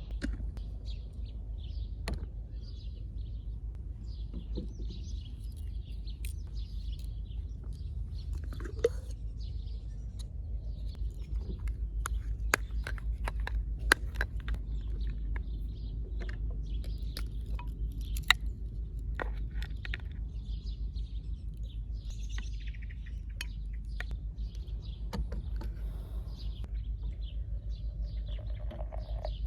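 Small birds chirping and twittering on and off, with scattered sharp clicks and a steady low rumble underneath.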